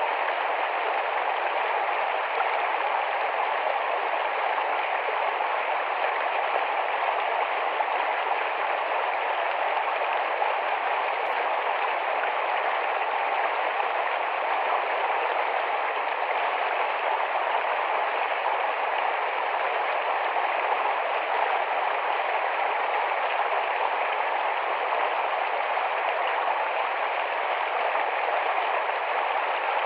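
Shallow forest stream running fast over rocks, a steady rushing and babbling with no breaks.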